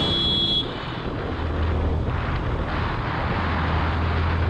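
Yamaha FZS single-cylinder motorcycle engine running steadily while riding, with wind rushing over the microphone. There is a short high-pitched tone in the first half-second.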